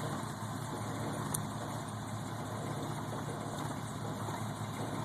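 Truck engine running steadily at low revs, with one faint click about a second and a half in.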